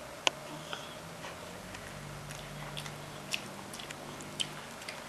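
A toddler biting into and chewing broccoli: a sharp click as he bites in just after the start, then scattered small crunching and mouth clicks. A faint low hum runs under the chewing and stops shortly before the end.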